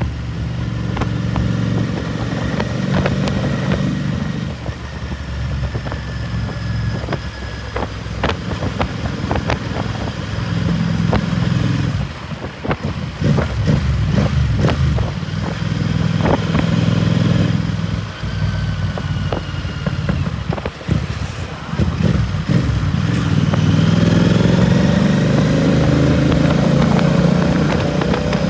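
Royal Enfield Continental GT 650's parallel-twin engine through a Red Rooster aftermarket exhaust, ridden on the road: the exhaust note rises and falls repeatedly with throttle and gear changes. A run of sharp crackles comes in the middle, and near the end the engine pulls up steadily in a long rising rev.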